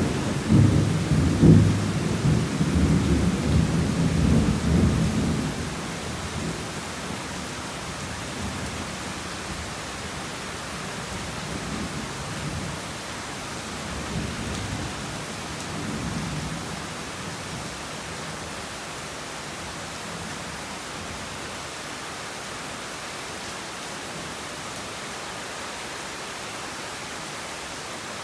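Heavy rain falling steadily, with a rolling thunder rumble that is loudest in the first five seconds and then dies away. Fainter rumbles of thunder follow about twelve to sixteen seconds in.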